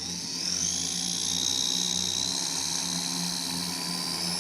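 RC P-51D Mustang model plane's motor and propeller throttling up for a takeoff run from the ground: a high whine that rises over about the first second, then holds steady.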